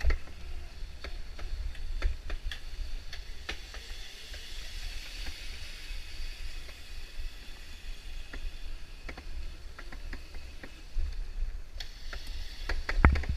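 Ride noise from a GoPro on a Razor MX650 electric dirt bike: a steady low rumble and faint high hiss with no engine note, broken by scattered clicks and knocks from bumps, several louder knocks near the end.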